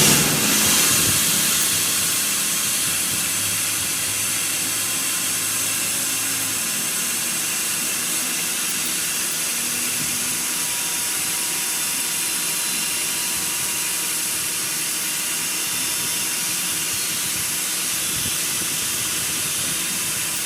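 A loud, steady hiss that starts abruptly and runs on evenly.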